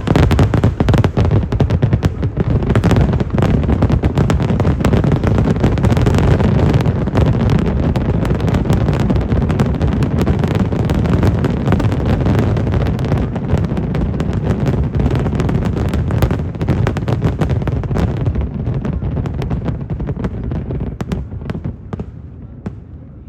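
Aerial fireworks display bursting in a rapid barrage of dense, overlapping bangs that thin out and fade over the last few seconds.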